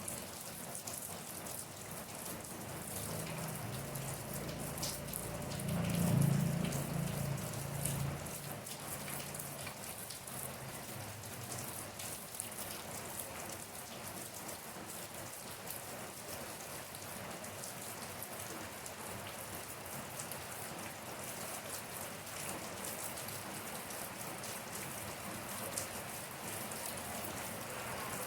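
Steady rain with many individual drops ticking on a surface. A low rumble swells and fades about six seconds in.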